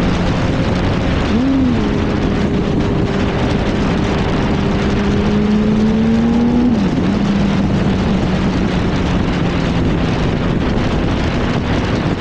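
Yamaha R1 sport bike's engine running under heavy wind rush on the microphone. Its tone blips up briefly about a second and a half in, climbs slowly for several seconds, then drops sharply about seven seconds in and holds steady.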